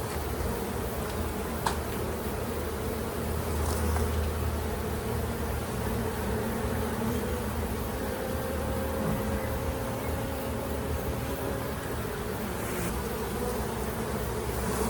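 Honey bee colony buzzing steadily around an opened hive: a dense, even hum of many bees, with a faint click or two.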